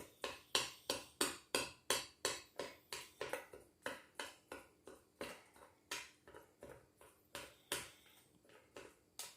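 Dog food being chopped into smaller chunks with a utensil: a steady run of short, sharp knocks about three a second, some strokes harder than others.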